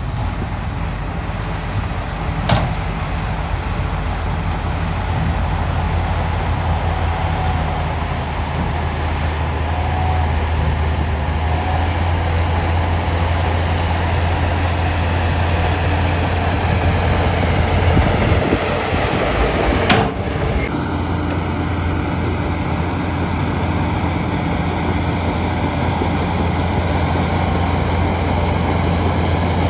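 Heavy diesel engine of a Shantui crawler bulldozer running steadily under load at a landfill. There are two sharp knocks, one about two seconds in and one about two-thirds of the way through, and the engine note changes just after the second.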